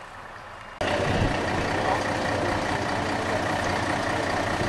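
A heavy engine running steadily, cutting in abruptly about a second in.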